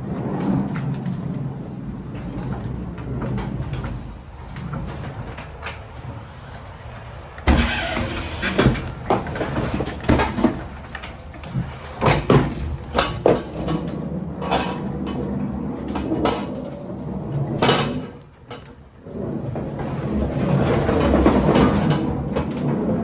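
Loaded pallets being shifted around inside a truck trailer. A steady running hum at first, then from about a third of the way in a string of knocks and clanks, with a steady rumble again near the end.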